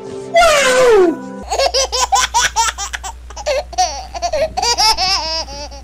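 A baby's giggling laughter, a quick run of high, wavering laughs, dubbed on as a comedy sound effect. It follows a single falling pitched wail about half a second in.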